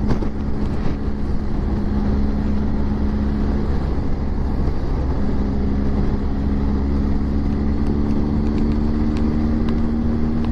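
Motorcycle engine running at a steady cruise, heard from the bike itself over heavy low wind rumble on the microphone. The engine note fades briefly about four seconds in, then comes back a little higher.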